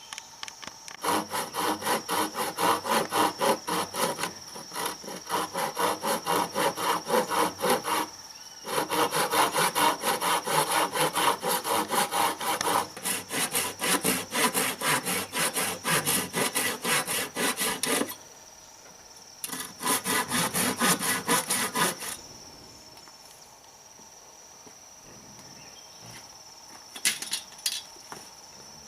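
Wood being cut with a hand saw in quick, even back-and-forth strokes, several a second. The sawing comes in runs with brief pauses, stops a little after two-thirds of the way through, and returns for a few strokes near the end. A steady high insect drone runs underneath.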